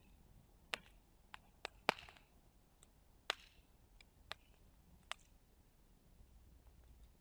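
Wood fire crackling: sporadic sharp pops and snaps from the burning wood, about seven at irregular intervals, the loudest about two seconds in.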